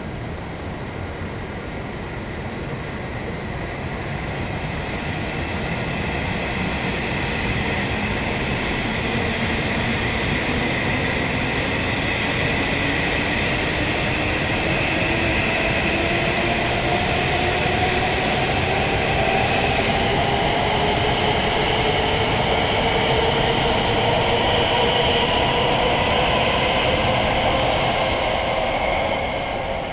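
E7 series Shinkansen pulling away from the platform. The electric traction motors whine in several tones that climb steadily in pitch as the train gathers speed, over a steady rumble from the wheels. The sound grows louder over the first several seconds, then fades just before the end as the last car passes.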